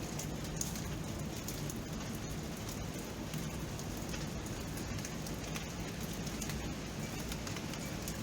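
Steady rainfall: an even hiss dotted with many small, irregular drop ticks.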